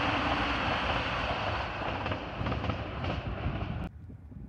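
CrossCountry diesel passenger train passing close by: a steady, loud rush of wheel and engine noise that cuts off suddenly near the end.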